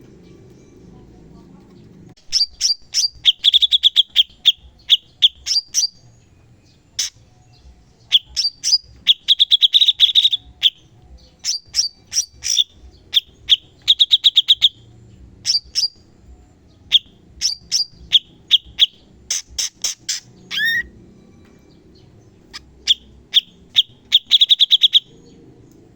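Cucak cungkok bird singing in rapid-fire 'tembakan' bursts: sharp chirps and fast trills of repeated high notes, broken by short pauses.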